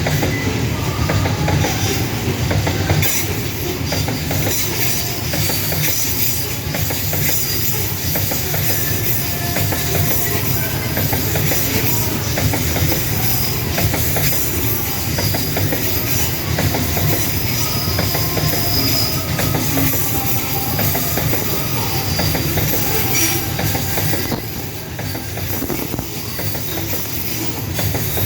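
Wagons of a long Babaranjang coal train rolling past close by, wheels clacking over the rail joints, with short metallic wheel squeals now and then.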